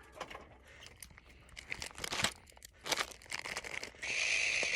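Plastic and cardboard packaging crinkling and rustling, with scattered small clicks and knocks of cage parts being handled. About four seconds in, a steady high-pitched call starts up.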